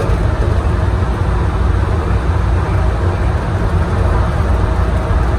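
Steady low rumble of the airport's underground people-mover train, heard from inside the car.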